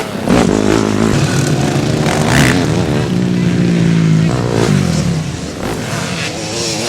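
Motocross bike engine revving hard, its pitch climbing and dropping again and again with throttle and gear changes.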